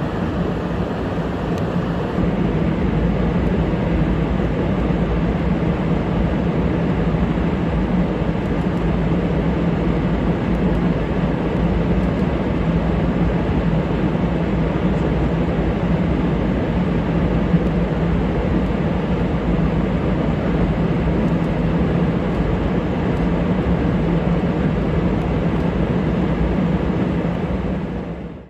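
F-35A Lightning II's single Pratt & Whitney F135 jet engine running with a steady rumble and low hum, which cuts off abruptly at the end.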